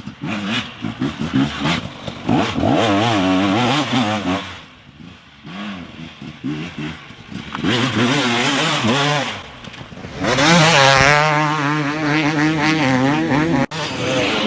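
Motocross dirt bikes revving on a dirt track, their engine pitch rising and falling over and over as they accelerate, shift and slow for the turns. From about ten seconds in a louder bike holds a steadier pitch, with a brief cut near the end.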